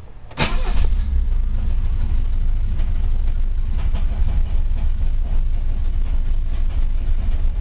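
Cold start of a 1966 Mercedes-Benz 200 'Heckflosse' four-cylinder petrol engine. About half a second in it fires and catches at once, with a sharp burst, then settles into a steady, low-pitched run.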